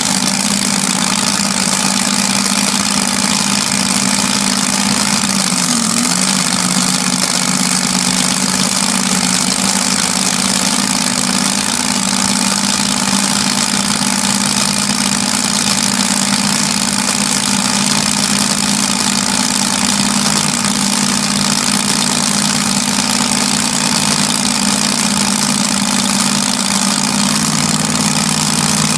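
An engine idling steadily at a constant speed, with a steady hum and no revving. Its lower tone shifts slightly near the end.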